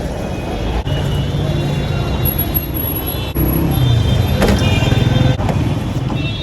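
A motor vehicle's engine running steadily, getting louder about three and a half seconds in.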